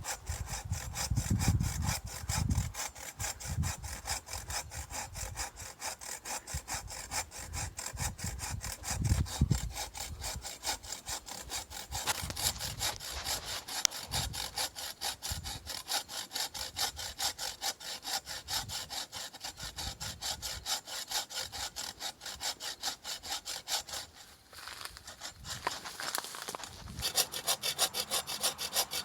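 Hand saw cutting through a tree branch in steady, rapid back-and-forth strokes, with a short pause about 24 seconds in before the sawing resumes.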